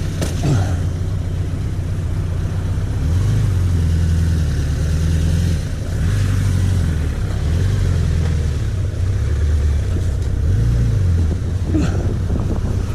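1991 Suzuki GSX1100F's inline-four engine running under way, its pitch rising and falling a few times as the throttle changes, over a steady rush of wind and road noise.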